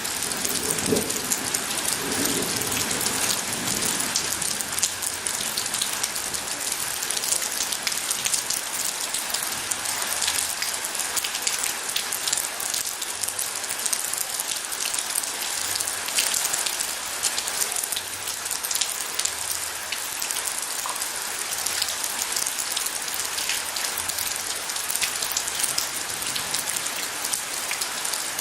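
Steady rain falling on surfaces, a dense, even hiss flecked with individual drop ticks. A low thunder rumble dies away in the first few seconds.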